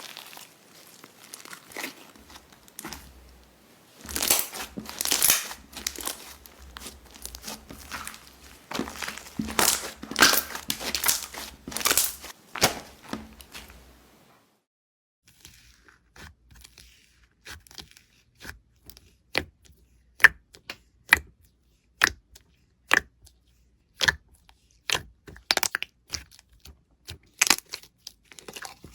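Slime being handled, first with dense crackling and crinkling that swells loudest in the middle of the first half. After a short gap, a run of sharp, separate crunching snaps follows, about one or two a second.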